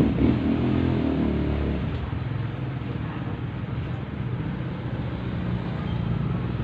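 Steady low mechanical rumble with a hum, like a running engine or passing traffic, continuing without change.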